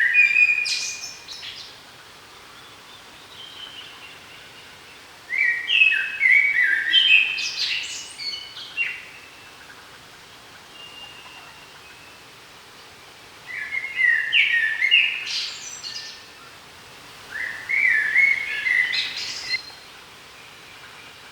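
A songbird singing four song phrases, each a quick run of stepped notes rising into a higher flourish and lasting two to three seconds, with pauses of several seconds between them. A few fainter notes are heard in the pauses.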